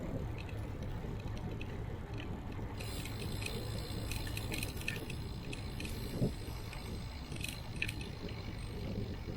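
Steady wind and road rumble on a bicycle-mounted camera during a ride. From about three seconds in, faint high-pitched ringing with scattered ticks joins it, and there is one short knock a little past six seconds.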